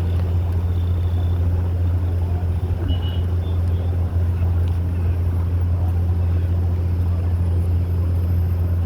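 A steady, unchanging low engine hum.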